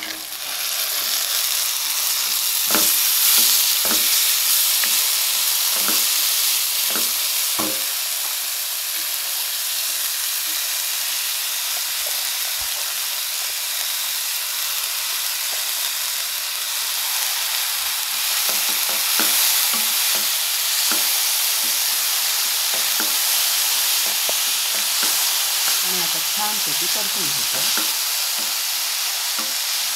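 Sprouted moth beans sizzling in hot oil in a kadhai, the sizzle starting suddenly as they hit the oil and holding steady. Scattered clicks and scrapes of stirring against the pan come in two clusters, a few seconds in and again past the middle.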